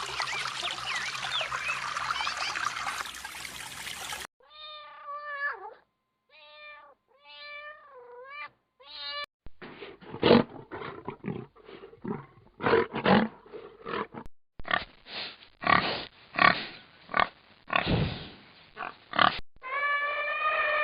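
A sequence of different animal calls cut one after another: a dense chorus of many small chirps, then a string of separate drawn-out calls that bend in pitch, then a long run of short, harsh, noisy calls, and a new sustained pitched call near the end.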